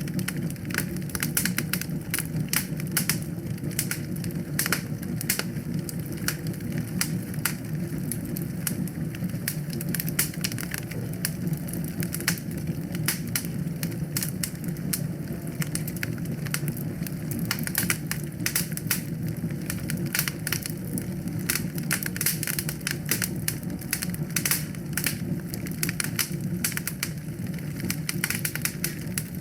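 Wood fire crackling and popping: many small irregular snaps over a steady low roar of flames.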